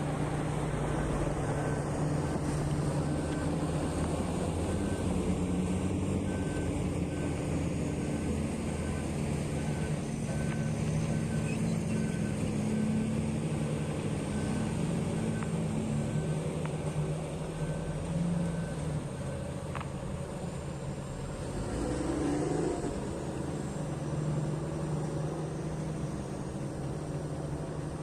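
Heavy mining machine's diesel engine running under load while its reversing alarm beeps about twice a second; the beeping stops about twenty seconds in and the engine runs on.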